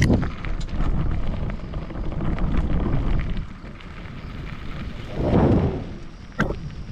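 Bicycle rolling over a rough forest track: an uneven rumble with wind buffeting the microphone, and a sharp knock at the start and another about six and a half seconds in.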